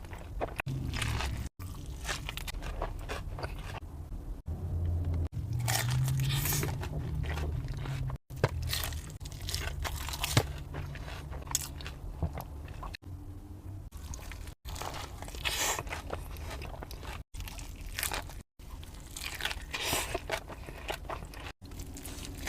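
Close-up crunching, biting and chewing of crispy fried chicken tenders, with a run of crackly bites and chews broken now and then by brief dead gaps.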